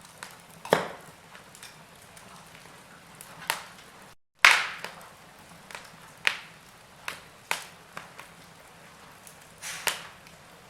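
Burning logs in a wood fire crackling: sharp pops and snaps at irregular intervals over a faint steady hiss. The loudest pop comes about four and a half seconds in, right after a split-second gap of silence.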